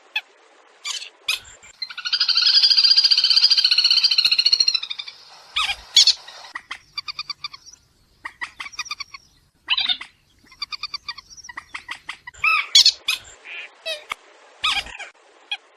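Water birds calling: fast chattering and squawking notes, with a long, harsh, buzzing trill from about two seconds in to about five seconds, then quick bursts of repeated notes.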